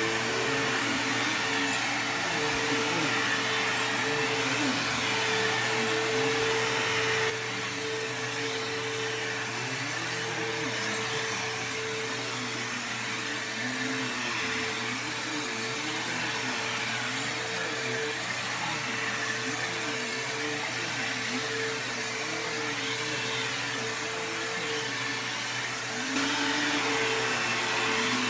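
Bissell Cleanview II Bagless 3574 upright vacuum cleaner running steadily, with a constant motor whine. It gets quieter about seven seconds in and louder again near the end.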